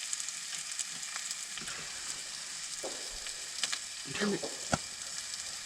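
Sliced bratwurst, onions and eggs sizzling steadily in a frying pan. Near the end comes a short sharp crack, which the campers take for someone shooting nearby.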